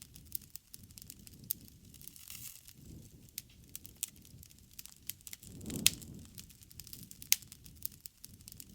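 Wood bonfire burning and crackling: irregular sharp pops and snaps over a low rush of flame that swells about six seconds in, with a loud pop at its peak.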